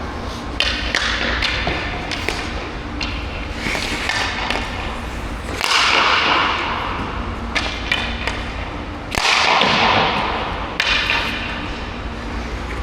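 Ice skate blades carving and scraping across rink ice in repeated swishing strokes every second or two, the loudest about six and nine seconds in, over a steady low rumble.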